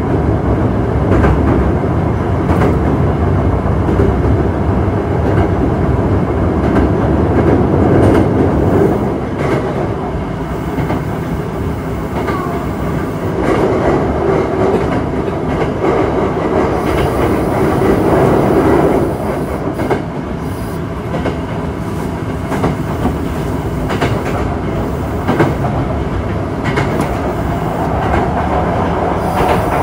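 Osaka Metro 66 series commuter train running on the line, heard from on board: a steady rumble of wheels on rail with scattered clicks from rail joints.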